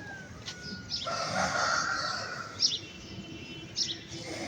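Chickens calling, with a rough call in the middle and a few short high chirps scattered through.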